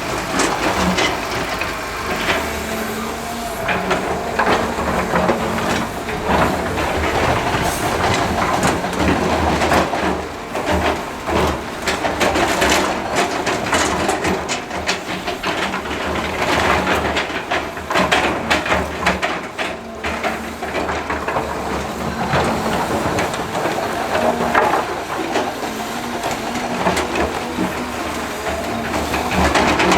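Heavy diesel construction machinery, most likely an excavator, running under load while rock and earth clatter and knock irregularly throughout.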